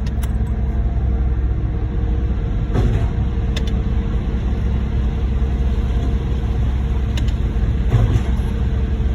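Heavy diesel engines of a concrete mixer truck and concrete pump truck running steadily as concrete is pumped: a constant low rumble with a steady hum.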